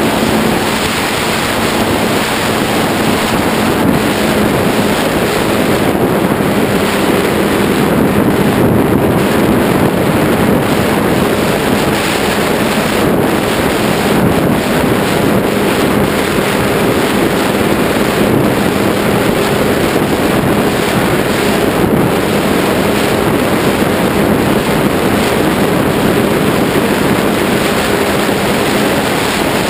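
Strong wind rushing over the microphone, with a faint steady hum underneath from the Ritewing Zephyr II flying wing's electric motor and propeller.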